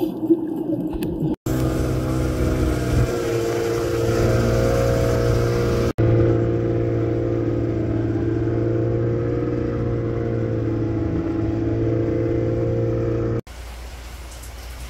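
A vehicle engine running steadily with a fairly constant pitch, heard across a few quick cuts. Near the end it gives way to a quieter, even rushing noise.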